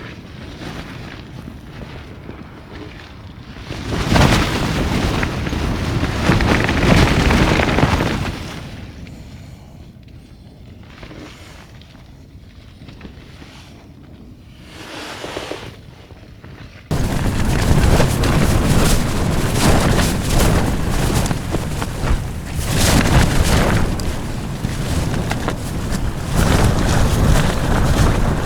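Strong mountain-ridge wind buffeting the microphone, swelling and dropping in gusts. About 17 seconds in it jumps abruptly to a louder, unbroken blast of wind.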